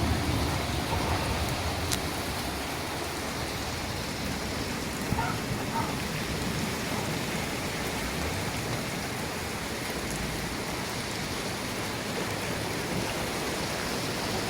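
Steady rain falling in a storm, an even hiss without a break.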